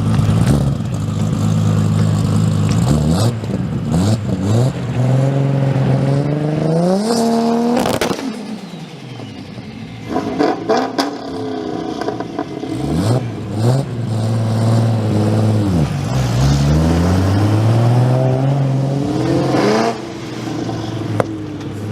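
Car engine running and revving: the pitch holds steady, climbs over several seconds to a peak about eight seconds in, drops, then climbs and falls again near the end, with a few sharp clicks in between.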